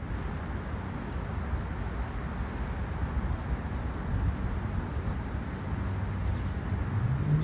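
Steady low rumbling background noise, like road traffic. Near the end a low humming tone rises in pitch and then holds steady.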